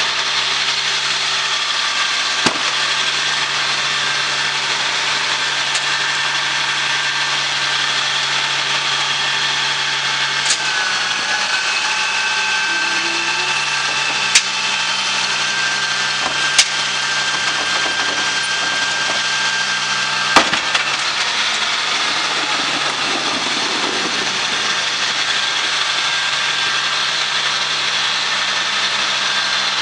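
GMC Topkick side-load garbage truck's engine running steadily, with a higher whine from about ten to twenty seconds in and several sharp clanks.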